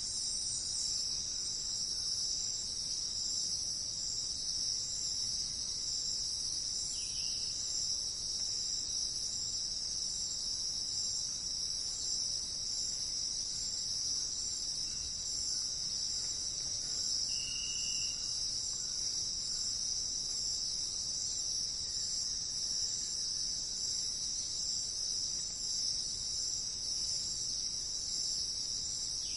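Steady, unbroken high-pitched chorus of insects trilling. Two brief faint short notes sound below it, about a quarter of the way in and again a little past halfway.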